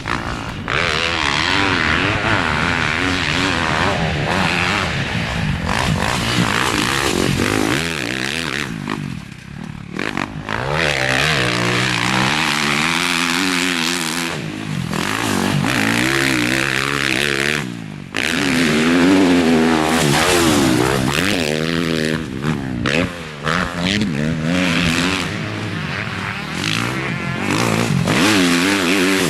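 Motocross bike engine revving hard and easing off over and over as it is ridden around a track, the pitch climbing and falling with each throttle burst and gear change. The engine note drops away briefly twice, about ten and eighteen seconds in.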